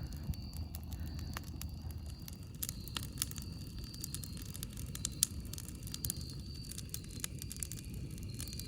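Campfire crackling: many sharp, irregular pops and snaps of burning wood over a steady low rumble.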